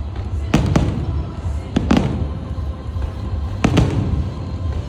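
Aerial fireworks bursting: three pairs of sharp bangs, each pair a quick double report, spaced about a second and a half apart, over a continuous low rumble.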